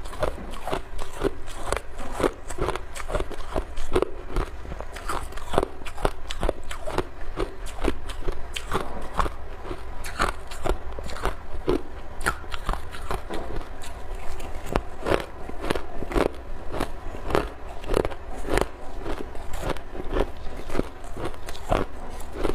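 Ice being bitten and chewed close up, a steady run of sharp crunches and cracks about two a second.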